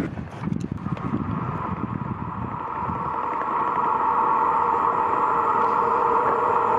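Italo AGV high-speed electric train approaching, a steady high hum that grows louder from about three seconds in.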